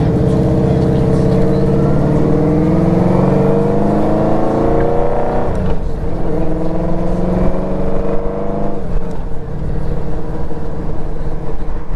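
Motorcycle engine accelerating through the gears: its pitch climbs steadily, drops at an upshift about six seconds in, climbs again, then drops at another shift near nine seconds and holds a steady cruising note.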